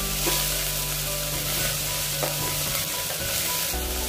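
Chopped spinach sizzling in hot ghee with softened onions in a stainless steel pressure cooker as it is stirred with a spatula, a steady frying hiss.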